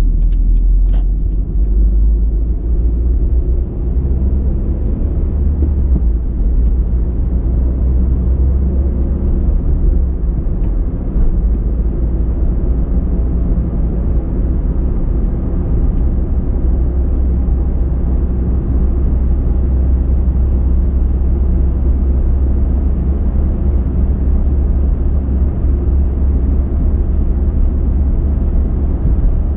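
Car driving at a steady speed: an even, low rumble of tyres and engine, with a few faint clicks in the first second.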